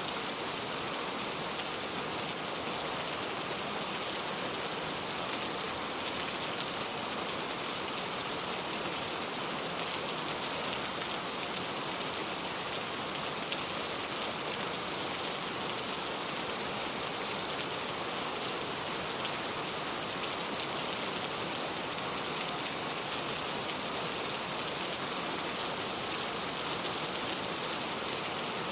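Heavy rain pouring steadily, a dense even hiss with many individual drops pattering on a surface.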